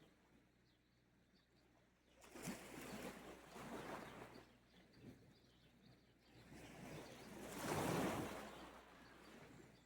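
Gentle sea waves washing onto the shore. The first surge comes about two seconds in and a larger one swells near the end, with quieter lulls between.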